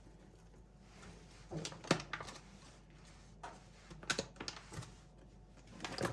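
Scattered light clicks and knocks in a few small clusters, the sound of household objects being handled and set down.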